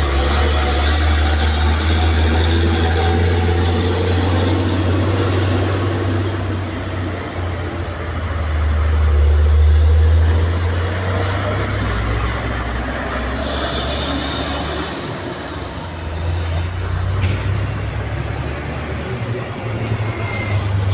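A heavy vehicle's engine running with a steady low rumble and road noise, louder around the middle.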